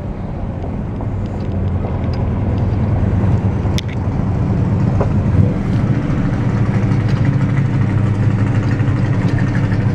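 A 1971 Chevelle SS's 454 big-block V8 pulls at about 60 mph, heard from inside the cabin as a steady low drone over road noise. It grows a little louder over the first few seconds, then holds.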